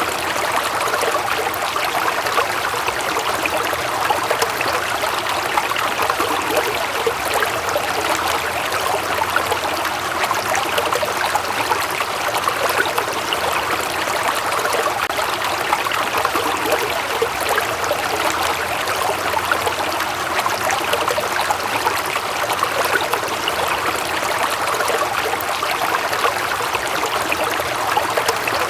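Running water flowing steadily, a continuous splashing rush with no break.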